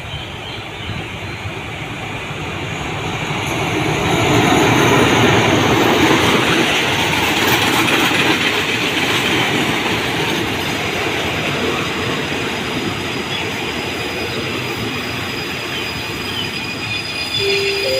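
Diesel-hauled passenger train running into the station past the platform, its wheels rumbling and clattering on the rails and growing loudest about four to eight seconds in as the locomotive and first coaches pass. Near the end there is a brief squeal as it slows to stop.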